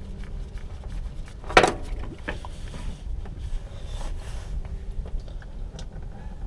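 Hand-work noises from the oil change: one loud sharp knock about one and a half seconds in, then scattered small clicks, over a low steady rumble.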